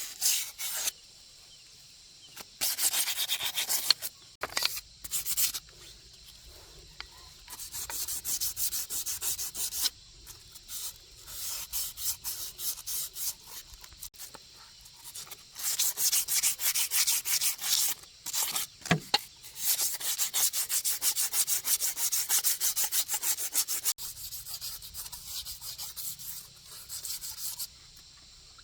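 Rapid back-and-forth rubbing strokes, as of a part being scrubbed or sanded by hand, in bouts of a few seconds with short pauses between. There is one brief knock about two-thirds of the way through.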